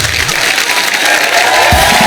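Studio audience applauding after a punchline, with a short burst of the house band's music coming back in near the end.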